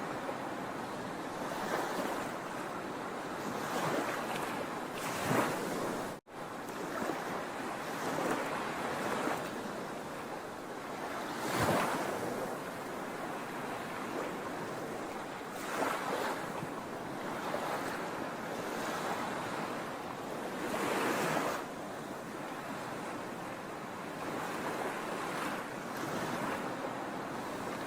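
Sea waves washing onto a shore, a steady surf with a louder surge every few seconds. The sound cuts out for an instant about six seconds in.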